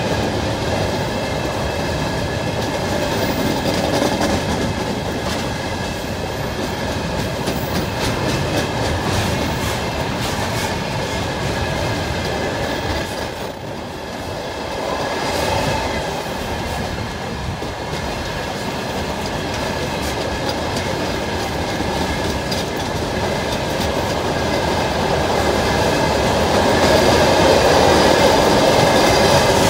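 Freight train of dump cars rolling past: a steady rumble with the wheels clattering over the rail joints and faint high squealing tones above it. It dips briefly around the middle and grows louder near the end.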